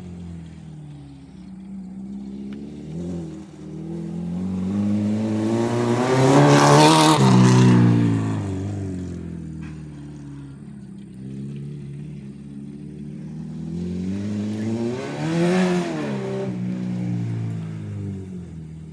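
Acura RSX four-cylinder engine being driven hard around a small track. Its pitch and loudness rise to a peak about seven seconds in and fall away, then rise and fall again near the end.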